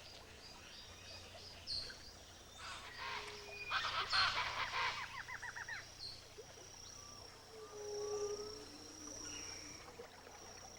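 Wetland ambience with several birds calling: a burst of rapid, chattering calls about three to five seconds in, and scattered single calls and a thin, steady high tone otherwise.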